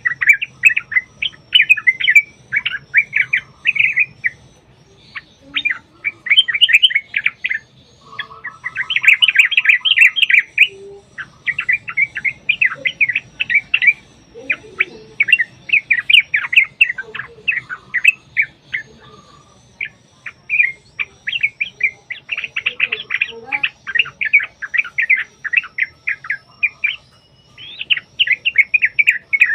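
Yellow-vented bulbuls (trucuk) singing in long, fast, bubbling runs of chattering notes, phrase after phrase with only short pauses.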